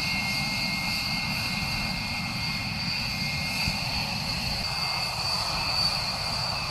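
Jet aircraft engines running steadily: a constant rushing roar with a high, even whine over it.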